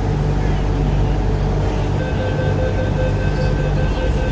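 MTR Island Line Q-Train running between stations, heard from inside the car: a steady loud rumble with a low hum, joined about halfway by a steady whine.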